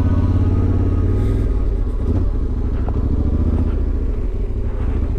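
Yamaha Ténéré 700's parallel-twin engine running at low revs, a steady pulsing engine note that eases slightly about a second and a half in.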